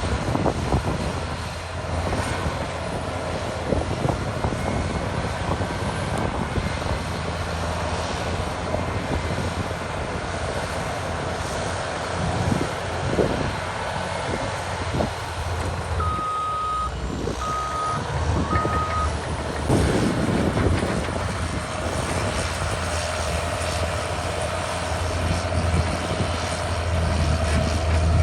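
Cat D6R2 bulldozer's diesel engine running steadily under load, with knocks and clatter from the tracks and blade. About two-thirds of the way through the engine eases off and the reverse alarm gives three short beeps as the dozer backs up.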